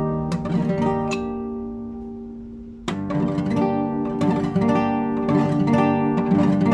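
Classical guitar played solo, improvising: plucked notes, then a chord left ringing and slowly dying away, before a sharp attack about three seconds in starts a new run of plucked notes.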